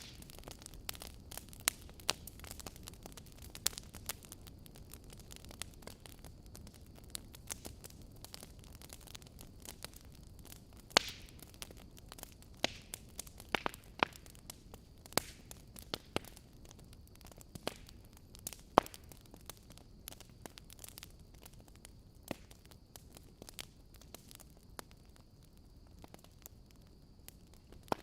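Wood fire burning in a fireplace: a low steady rush of flames with irregular sharp crackles and pops from the logs, a few of them much louder than the rest.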